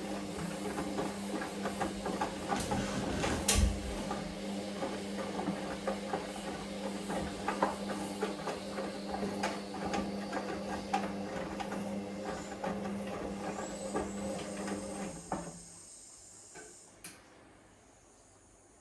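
Hoover Vision Dynamic washing machine running its wash, with a steady motor hum and a run of clicks and rattles as the drum turns the load, plus one sharp knock about three and a half seconds in. The drum stops about fifteen seconds in, as in the pause between turns of a wash cycle.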